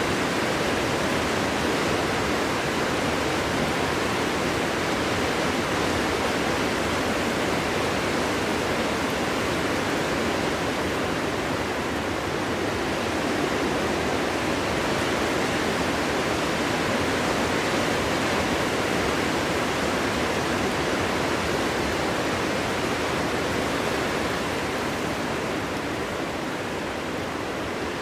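Steady winter wind blowing through a forest, a dense, even rushing noise without whistles or distinct gusts, easing slightly near the end.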